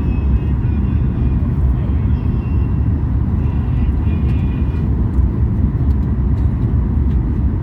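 Steady low rumble of a moving vehicle, with faint voices behind it.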